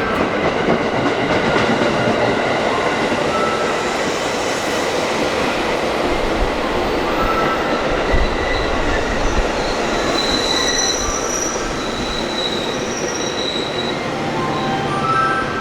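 Train running on the rails: steady wheel and rail noise, with short high-pitched wheel squeals about ten to thirteen seconds in.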